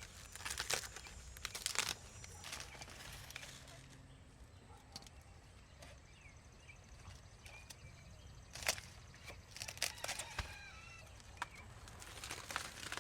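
Poultry moving about with bouts of rustling and scuffling, and faint short bird chirps in the middle.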